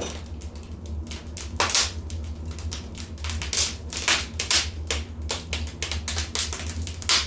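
Wood fire in a fireplace crackling, with irregular sharp pops and snaps, a few louder than the rest, over a steady low hum.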